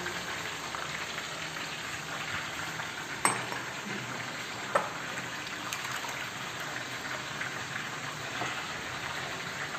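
Chicken pieces deep-frying in a pan of oil, a steady sizzle, with two short sharp knocks about three and five seconds in.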